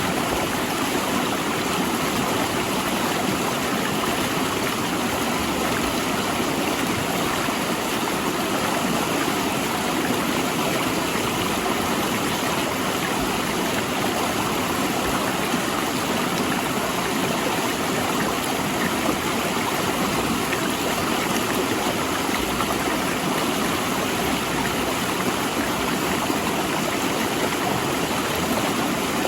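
A rocky river rushing steadily between large boulders, a continuous even water noise without pauses.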